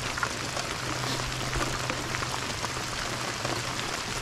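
Steady rain falling on the lake and boat, an even hiss with scattered close drops ticking, over a faint steady low hum.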